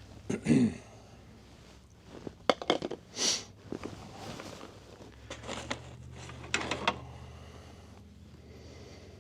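Clinks and knocks of metal latch parts and hand tools being handled, in several short clusters, over a steady low hum.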